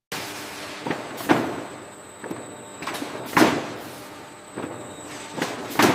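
Processing-line machinery running with a steady hiss, and heavy clunks and knocks at irregular intervals, the loudest about every two seconds.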